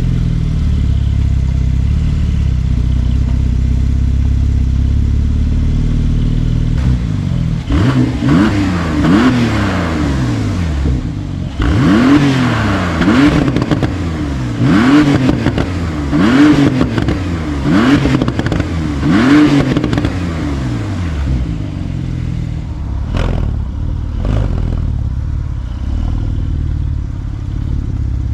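Porsche 911 Turbo S (992) twin-turbo flat-six running through a titanium sport exhaust with stainless pipework and an X-pipe. It idles steadily just after start-up, then is revved in a string of quick blips about one and a half seconds apart. It settles back to idle, with two sharp pops near the end.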